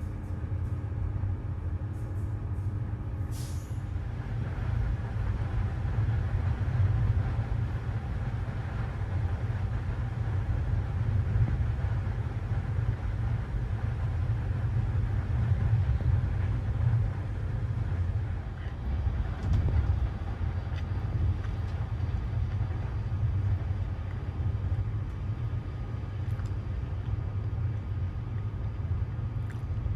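Passenger train running along the line: a steady low rumble of the wheels and carriage.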